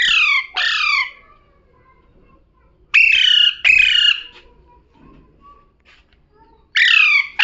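Pet parrot screeching in pairs of harsh calls, each call falling in pitch: three pairs, about three seconds apart.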